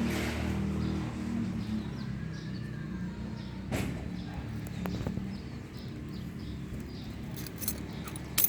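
Kawasaki Ninja ZX-25R's inline-four engine idling low through an aftermarket Avionic exhaust, fading through the first half. Faint bird chirps sound throughout, with a few sharp clicks that are loudest near the end.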